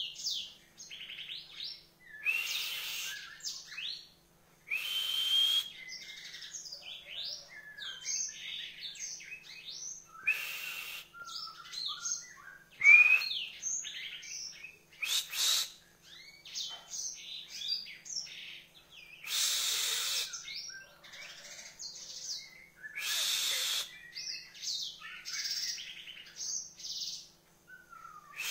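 Songbird singing a rapid, varied song of high chirps and whistled notes, broken every few seconds by harsh, raspy bursts.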